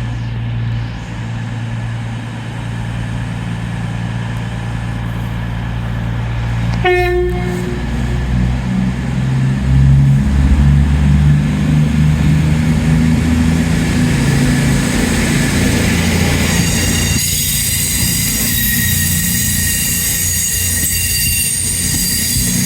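A train at a station platform with its engine running. It gives a short horn blast about seven seconds in, the engine note rises as it pulls away, and high-pitched wheel squeal sets in over the last few seconds.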